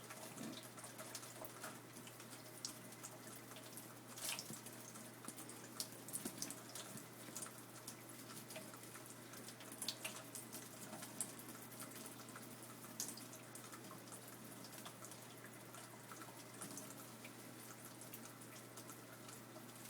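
A small bird bathing in shallow water, with light, irregular splashes and drips over a faint steady hum.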